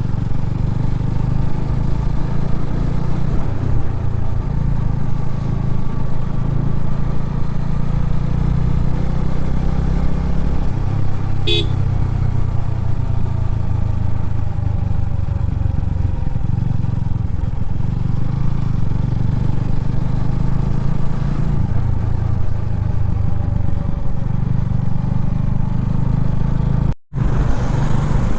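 Motorcycle engine running steadily while riding, with one short high-pitched sound near the middle. The sound drops out for a moment about a second before the end.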